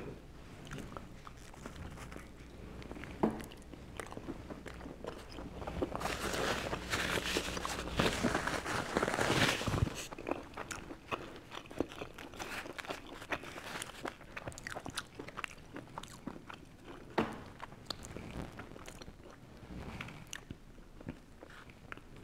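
A person biting and chewing a slice of pizza, with many small crunches and mouth clicks; the crunching is louder and denser for a few seconds about six seconds in.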